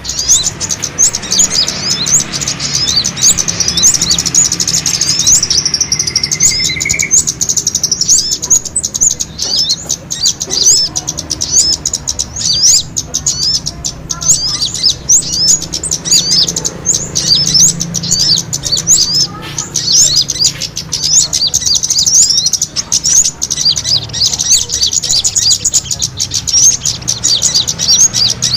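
Bird-lure recording of small birds calling agitatedly as in a fight: a dense, continuous chatter of rapid high-pitched chirps from several birds at once, with a faint low hum beneath.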